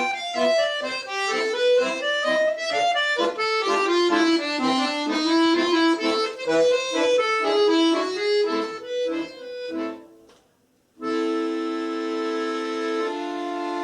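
Solo accordion playing a fast run of notes. About ten seconds in it stops for roughly a second, then comes back in with long held chords.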